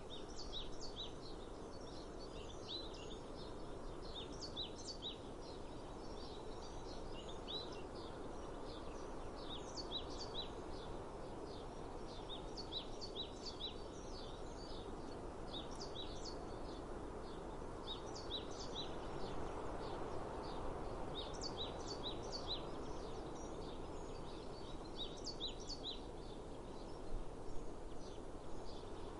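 Small songbirds chirping, short high notes repeated in quick clusters every second or two, over a steady background of outdoor noise. A few louder knocks come near the end.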